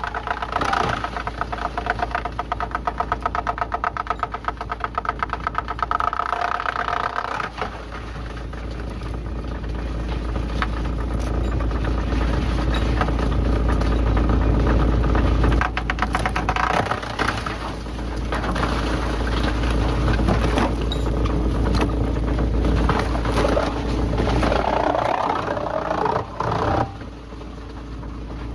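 Engine-driven machinery running steadily. For the first seven seconds or so it pulses fast and evenly, then it settles into a steadier, noisier run with a deep hum.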